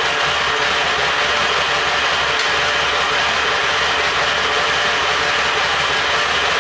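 Kawasaki Z1000 motorcycle engine running steadily.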